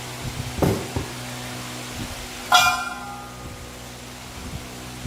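A steady low engine hum, knocked twice about a second in, and a short horn beep about two and a half seconds in.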